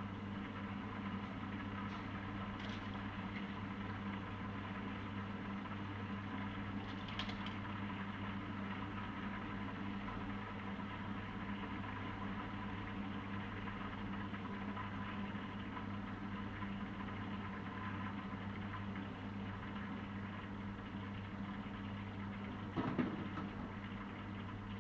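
Steady low mechanical hum, like a motor or appliance running, with a brief knock near the end.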